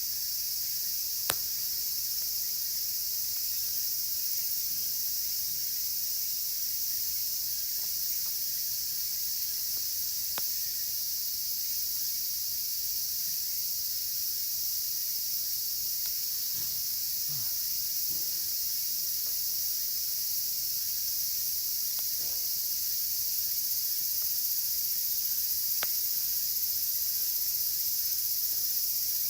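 Dense chorus of cicadas, a steady high-pitched shrill, with a few sharp pops from burning wood in a campfire, one clear pop about a second in.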